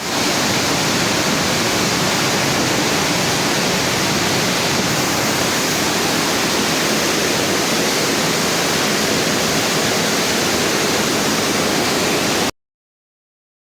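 Flash-flood water rushing through a cave passage, a stream swollen into a river by heavy rain at the surface. It is a loud, steady rush of water that stops abruptly near the end.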